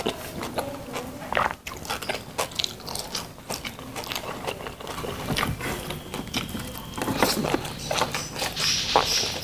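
A person chewing a mouthful of rice with stir-fried green beans and corn, eaten by hand: many short, irregular wet mouth clicks and smacks.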